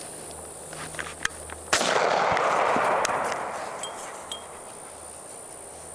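A single gunshot fired in open country: a sudden sharp crack about two seconds in, followed by a long rolling echo that dies away over the next couple of seconds.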